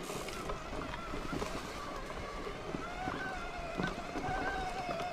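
Wind on the microphone and rolling noise from a moving bicycle, with a steady whine that wavers and rises slightly about three seconds in.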